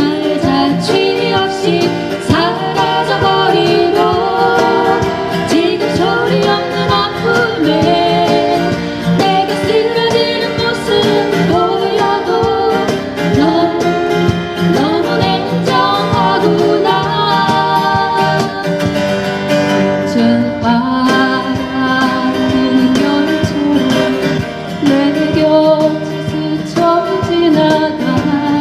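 A woman singing a ballad to strummed acoustic guitar accompaniment.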